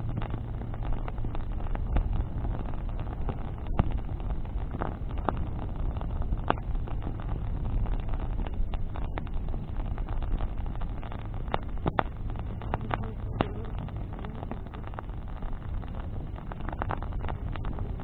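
Bonfire of branches burning, with irregular sharp crackles and pops over a steady low rumble.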